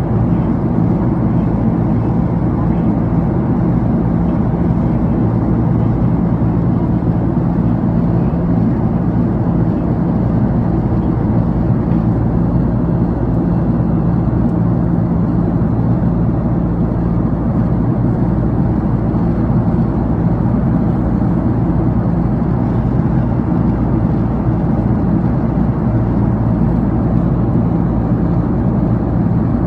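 Steady in-flight cabin drone of a jet airliner: engine and airflow noise with a low, even hum that does not change.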